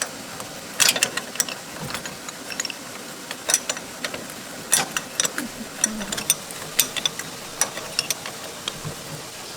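Irregular sharp metallic clicks and clinks of hand tools, bolts and parts being worked on a farm tractor during repair.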